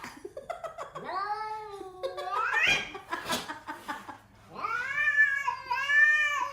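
A cat yowling: two long drawn-out meows about two seconds apart, the first rising in pitch at its end.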